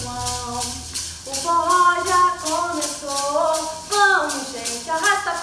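A festa junina song with a sung melody over a steady shaker rhythm, about three to four shakes a second.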